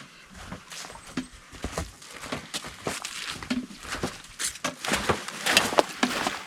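Footsteps of a person walking a trail while portaging, a few steps a second, growing louder toward the end.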